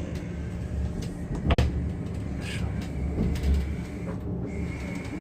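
Steady low rumble inside a high-speed train carriage, with one sharp click about a second and a half in and a faint high steady tone coming in past the middle.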